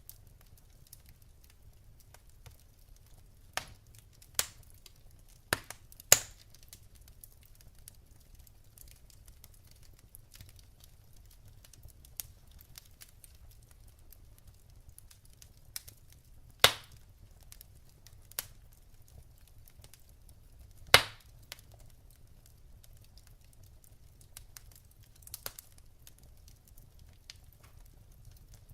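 Wood fire crackling in a fireplace: sparse sharp pops from the burning logs, three of them loud and several smaller, over a faint steady low hum.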